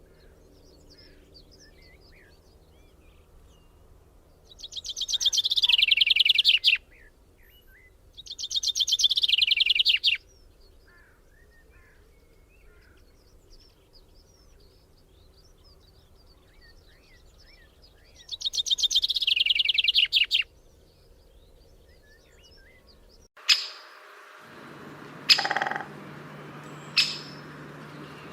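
Bird song: three loud, rapid trills, each falling in pitch over about two seconds, with faint chirps from other birds between them. Near the end the recording changes to a different bird giving sharp, short calls every second or two over a low hum.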